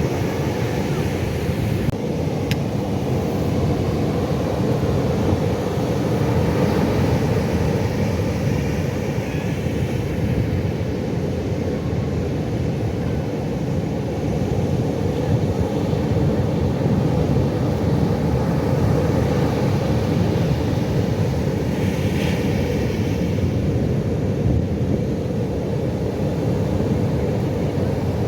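Pacific Ocean surf, a steady low rumble of breaking waves with no distinct pauses between them.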